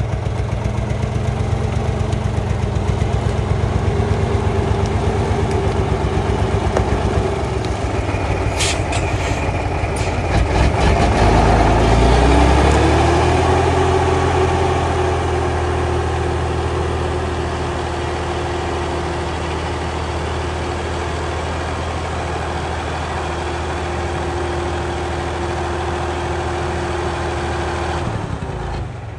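Loaded log truck's engine labouring on a slope. About eleven seconds in it revs up, is loudest at about twelve seconds, and then holds at high revs until it drops back just before the end. It is straining to climb with all wheels driven and not getting up.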